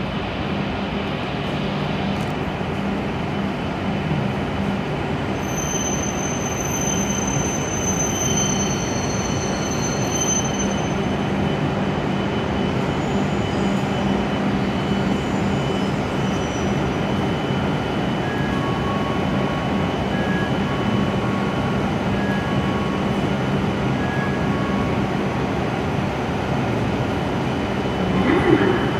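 W7 series Hokuriku Shinkansen train pulling slowly into the platform and braking to a stop, a steady electric running rumble with a high squeal about six seconds in. Short two-note beeps repeat in the second half.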